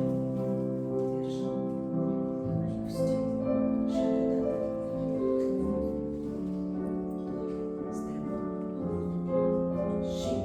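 Classical piano music for a ballet class, slow chords over a moving bass line, with a few brief soft noises over it.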